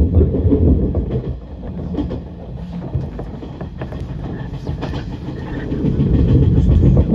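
Electric train running along the track, heard from inside just behind the driver's cab: a low rumble from the running gear with scattered sharp clicks of the wheels over the rails. The rumble eases after about a second and builds again near the end.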